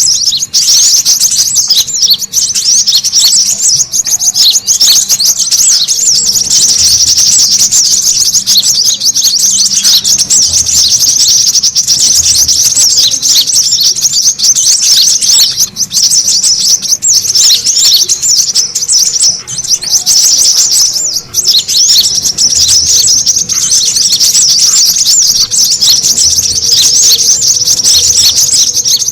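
Brown-throated sunbirds (kolibri kelapa) calling in a dense, high-pitched twittering chatter of rapid chirps without a break. It is an agitated 'ribut' lure recording meant to draw other birds in and set caged sunbirds singing.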